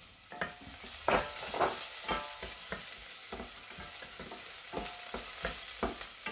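Onions, garlic and ginger sizzling in hot oil in a stainless steel pan. A wooden spoon stirs and scrapes through them in many short strokes. The sizzle gets louder about a second in.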